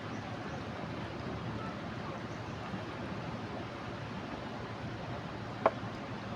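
Steady rushing of a river in flood, with one sharp click about five and a half seconds in.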